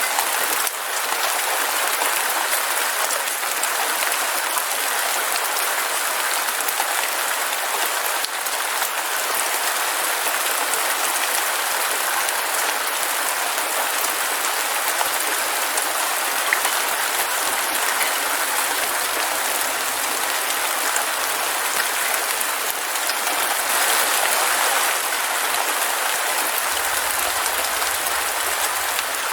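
Heavy rain falling steadily: an even, dense hiss of many drops, with no thunder.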